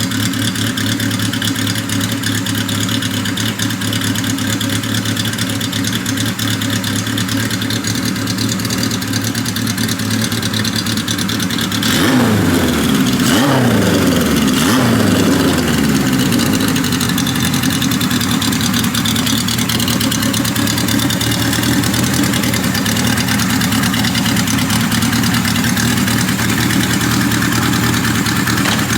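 1980 Kawasaki KZ1000 LTD's air-cooled inline four-cylinder engine idling steadily after a carburettor rebuild and rejet. About twelve seconds in it is revved several times, each rev rising and dropping back, before it settles back to idle.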